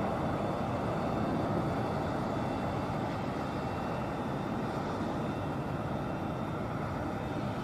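Jet engines of an Airbus A320neo running: a steady rumble with a thin high-pitched whine on top, slowly getting quieter.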